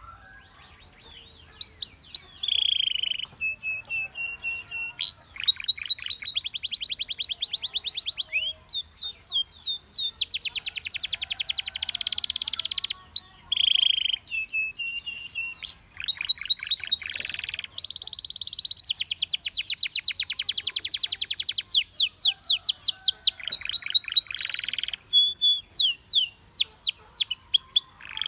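Domestic canary singing a long, continuous song of rapid trills and rolls, with quick rising and falling sweeps and a few short held notes, barely pausing after a quiet first second.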